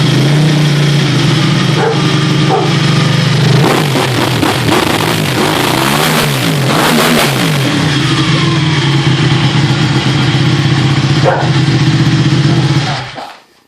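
Ducati Panigale 1199's L-twin engine through a loud Termignoni exhaust. It idles steadily, is revved repeatedly for about four seconds in the middle, then settles back to idle. Near the end the engine is switched off and the sound cuts out.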